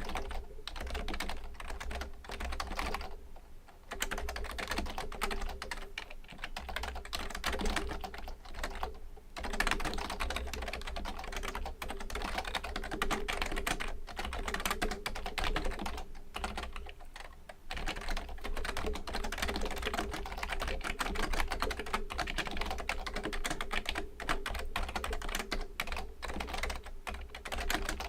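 Fujitsu Component Libertouch premium membrane keyboard being typed on in a dense, continuous run of key presses. The typing breaks off briefly about three and a half, nine and seventeen seconds in.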